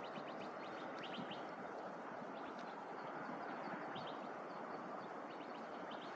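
Small birds chirping in short quick runs of high notes, several times, over a steady background hum.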